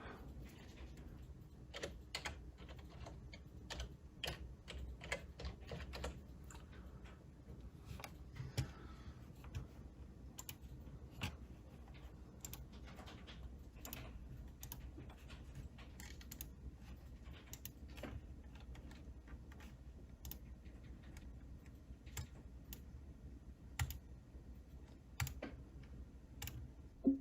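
Irregular light clicks and taps from hands working at a computer, scattered through the whole stretch over a low steady hum.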